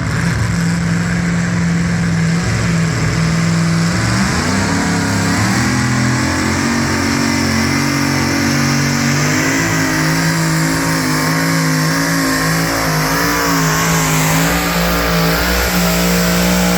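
Pulling truck's engine running hard under load. Its pitch rises about four seconds in and then holds high with a slight waver.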